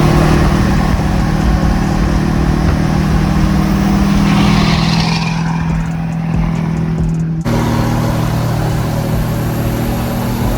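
Diesel pickup truck driving on the road: a steady engine drone with road noise. About seven and a half seconds in, the sound cuts abruptly to another steady engine tone, like a second stretch of driving.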